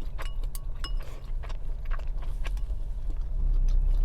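Scattered light clicks and clinks of chopsticks and dishes being handled, over a steady low rumble.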